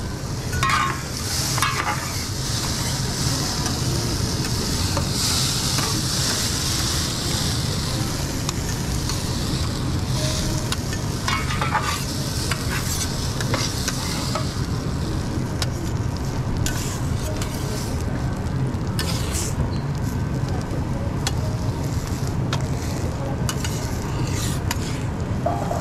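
Omelette frying on a hot griddle: a steady sizzle, loudest a few seconds in, with short metal scrapes and taps of a spatula every few seconds.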